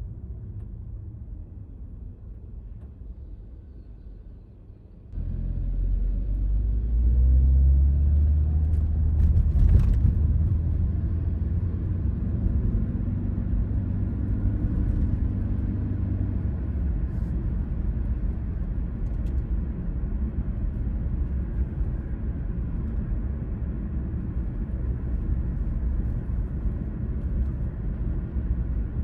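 Car driving on a suburban road: low engine and tyre rumble, fairly quiet at first, then jumping suddenly louder about five seconds in. The engine note rises as the car speeds up, then settles into a steady cruising road rumble.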